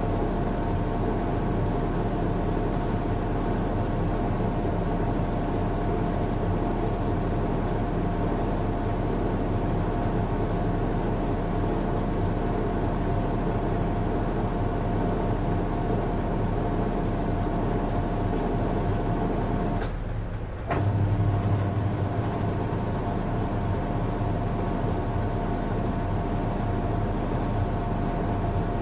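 Washing machine running a strong cycle: a steady motor hum and whir with a few constant tones. About twenty seconds in it drops off for a moment, then a deeper hum swells briefly before the steady running resumes.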